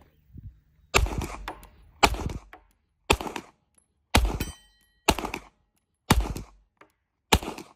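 Seven gunshots fired at a steady pace, about one a second, each followed by a short echo. A faint metallic ring follows the fourth shot.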